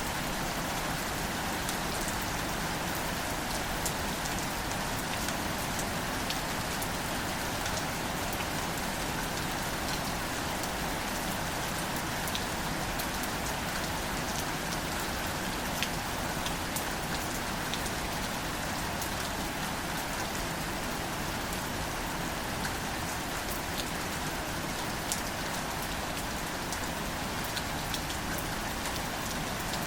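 Steady rain falling on plants and leaves, a continuous hiss with scattered sharp ticks of single drops.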